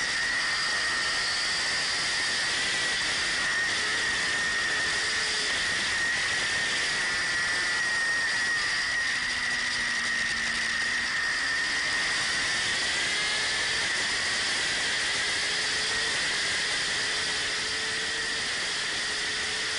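Onboard camera audio from a superbike at racing speed: a steady rush of wind hiss and a constant high whine, with a fainter engine note underneath that rises and falls as the revs change.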